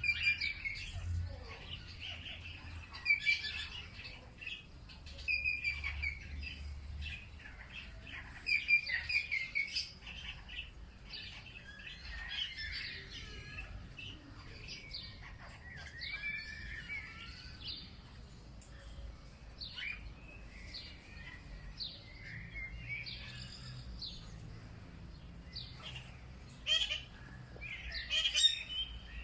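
Birds chirping and singing, with many short overlapping calls and warbled phrases, over a faint low rumble.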